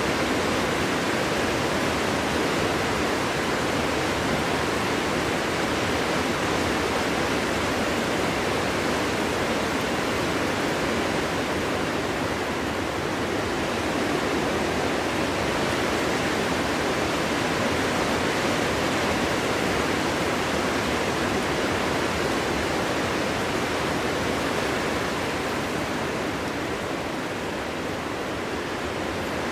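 Winter wind blowing steadily: an even rushing noise with no howl or gusts, easing slightly a few seconds before the end.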